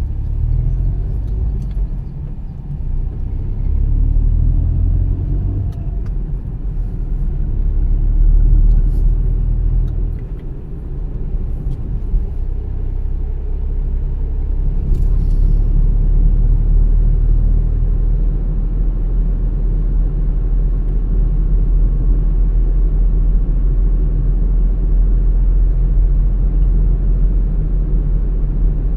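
Car driving along a road: a steady low rumble of engine and tyre noise that swells and eases in the first ten seconds, with a few faint ticks.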